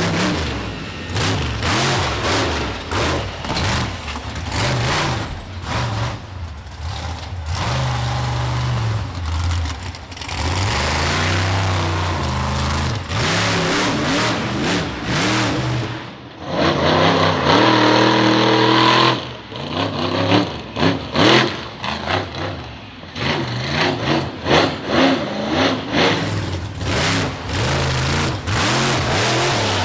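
Monster truck engine revving hard again and again during a freestyle run. The pitch climbs and drops over and over, with a sustained high-revving stretch a little past the middle.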